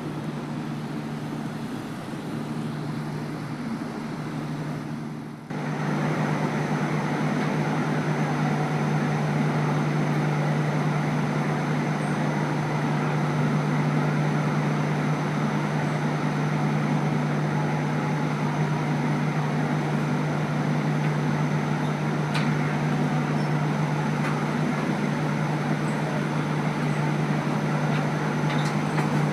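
Train diesel engine running steadily with a low, even hum. About five and a half seconds in the sound breaks off for an instant and comes back louder.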